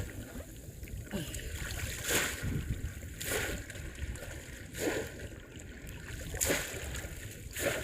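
Splashes in shallow water at a steady pace, one about every second and a half, over wind on the microphone.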